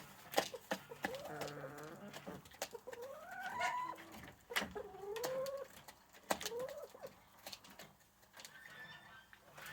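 Chickens calling with short warbling notes that rise and fall in pitch, several in the first seven seconds, among sharp clicks and taps.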